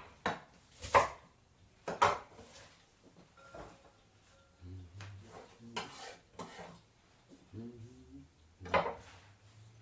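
Chopping with a knife on a cutting board tails off into a few single strikes, then light clinks and scrapes of dishes and cutlery while a salad is prepared. One louder knock comes near the end.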